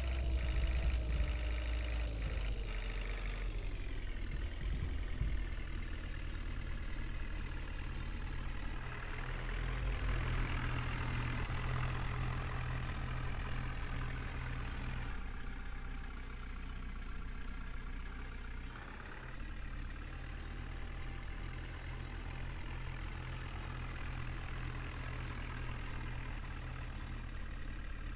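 Heavy diesel engine of a JCB backhoe loader running as it works, with a steady low throb and an engine note that rises and eases at times.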